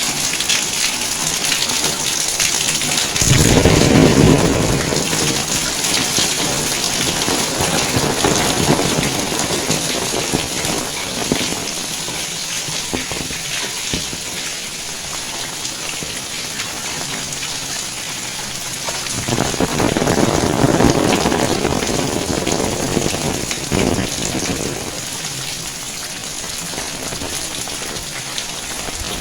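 Rain falling steadily, a continuous hiss of drops on the ground and surfaces. It grows louder and deeper twice, about three seconds in and again around twenty seconds in.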